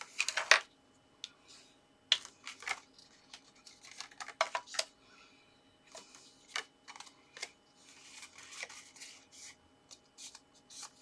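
Cardstock being handled and folded along its score lines: scattered crackles and taps of stiff paper, with a soft rubbing stretch near the end.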